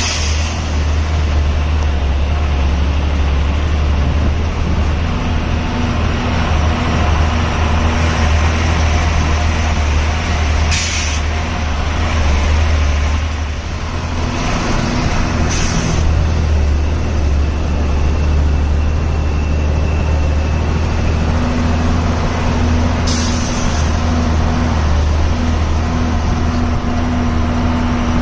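Heavy truck's diesel engine running steadily under way, easing off briefly about halfway through. Four short air hisses from the truck's air brakes are spread through it.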